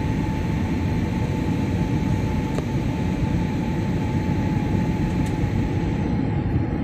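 Steady cabin noise inside an airliner in flight: a dense low rumble of engine and air noise with a thin steady whine above it, and two faint ticks.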